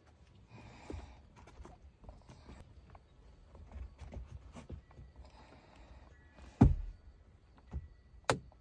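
Objects being handled and set down: scattered light clicks and rustling, with one sharp thud about two-thirds of the way in and two smaller knocks near the end.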